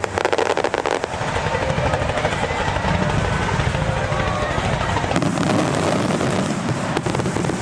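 Fireworks crackling in a rapid run of sharp pops for about the first second, then a steady rumbling din with faint crowd voices.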